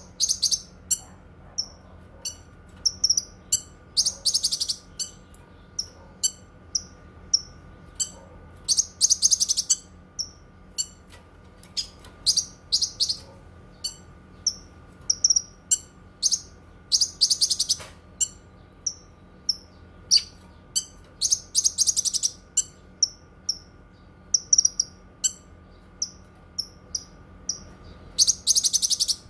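Cucak kinoi singing: a run of short, high-pitched chirps broken about every four to five seconds by a longer, dense burst of song, over a faint steady hum.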